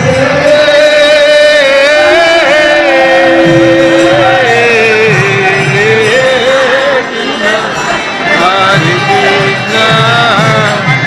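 Devotional singing: a voice holding long, wavering melodic lines over steady instrumental accompaniment.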